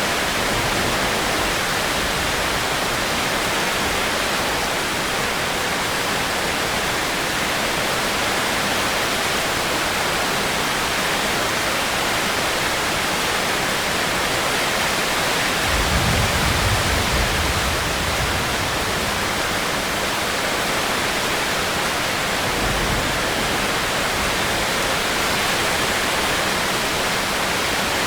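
Steady heavy rain, an even hiss without a break, with a short low rumble a little over halfway through and a fainter one a few seconds later.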